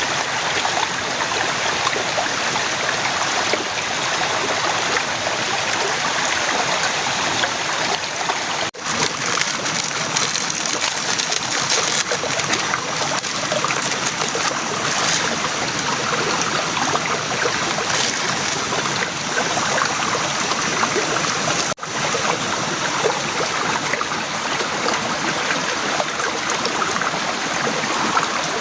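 Torrential rain pouring down steadily as a dense, even hiss of falling and running water. It cuts out for an instant twice.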